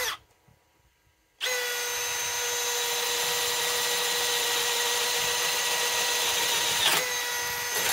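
Milwaukee M12 Fuel cordless hammer drill boring a 1 1/8-inch hole, its motor running at a steady high whine for about seven seconds. The sound shifts slightly about a second before it stops.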